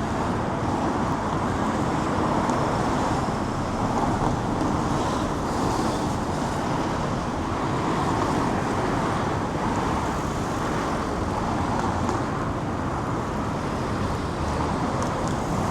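Steady outdoor city street ambience: a constant wash of traffic and crowd noise, with no single sound standing out.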